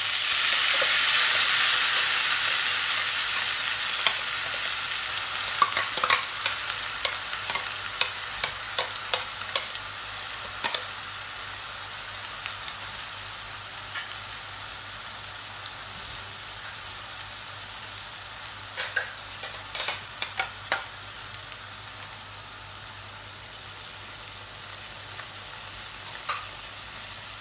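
Blended tomato gravy poured into hot oil and fried cumin seeds in a non-stick pan, setting off a loud sizzle that slowly settles into a steady frying hiss with scattered pops and crackles.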